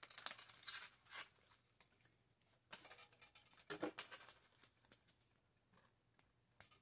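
Faint, scattered clicks and short scrapes of small electronic parts being handled, bunched in the first second and again around three to four seconds in, with near silence between.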